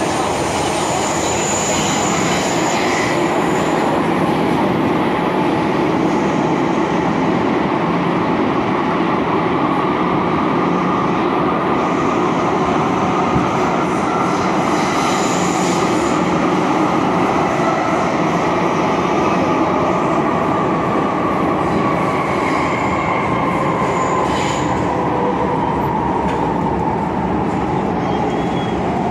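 MTR Kwun Tong Line M-Train electric multiple unit running between stations: a steady wheel-and-track rumble under a motor whine that climbs slowly, then drops in pitch towards the end. A few brief high-pitched squeals break in now and then.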